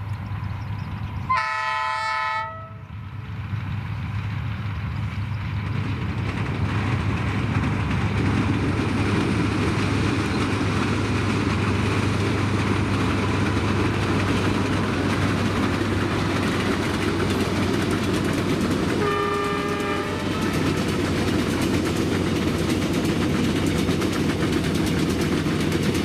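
D19E diesel-electric locomotive hauling a passenger train: its horn sounds a long blast about a second in and a shorter, quieter one after about twenty seconds. Under the horn the diesel engine drones steadily, and the rumble of the wheels and coaches grows louder from about six seconds on as the train comes close.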